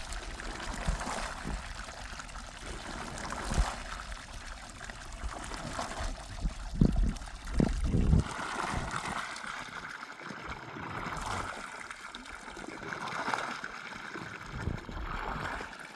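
Water running and trickling steadily, with a few dull thumps about seven to eight seconds in.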